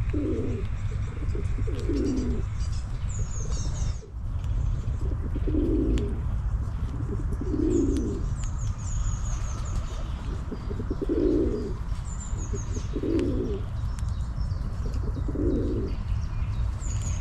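Pigeons cooing, about seven low coos spaced a couple of seconds apart, over a steady low rumble. A small bird's short, high, falling chirps come in a few times.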